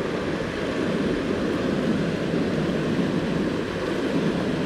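Steady rush of water pouring over a small creek waterfall, a constant low roar.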